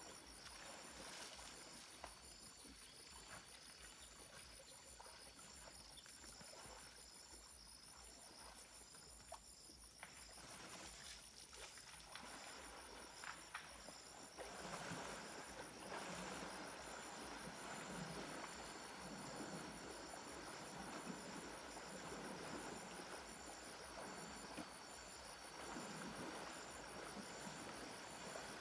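Faint outdoor ambience of insects calling in steady, evenly pulsed high trills. About halfway through, a louder rough sound starts that swells and fades roughly once a second.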